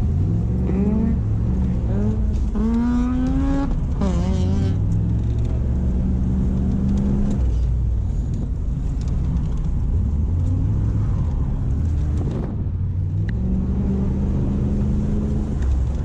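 A car engine running, mostly at a steady idle, its pitch stepping up and down a few times, with a person's voice briefly over it a few seconds in.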